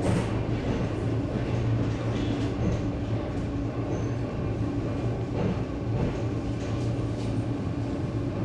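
ED9M electric train running on the line, heard from inside the car: a steady rumbling running noise with a constant low hum and a few faint knocks in the second half.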